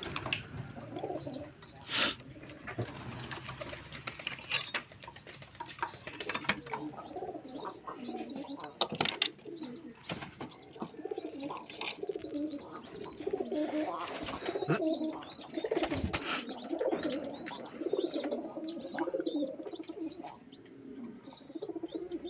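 A flock of domestic pigeons cooing continuously, many overlapping low warbling calls, with a few sharp knocks and clatters and high short chirps in the second half.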